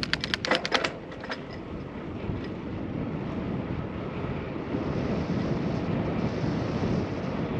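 Wind buffeting the microphone with road noise from a moving bicycle, growing louder over the last few seconds. A quick run of sharp clicks or rattles comes in the first second.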